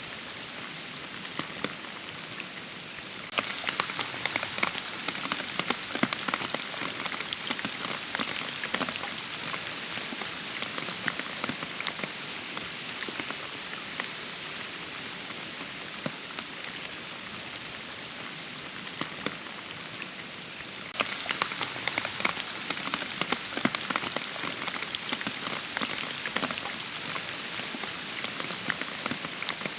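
Steady rain falling, with many individual drops pattering close by. The rain gets abruptly heavier about three seconds in, eases a little, then picks up again about twenty seconds later.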